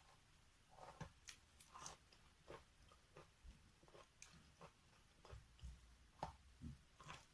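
Wet natural chalk being chewed in a mouth: faint, irregular small crunches, about two a second.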